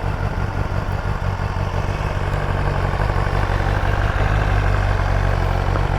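BMW S1000RR's inline-four engine idling steadily while warming up after a cold start.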